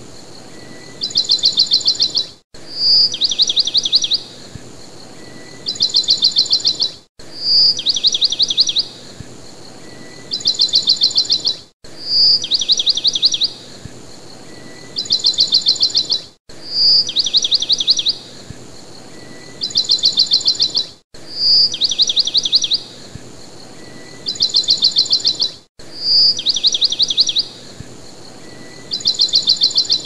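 A songbird repeating one phrase: a short high note followed by a rapid trill of about eight notes, then a second trill a moment later. The same recording is looped about every five seconds, with a brief gap at each join.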